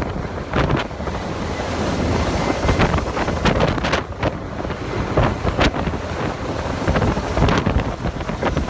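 Rotor downwash from a Kamov helicopter hovering directly overhead, blasting the microphone with heavy, gusting wind noise over a deep rumble.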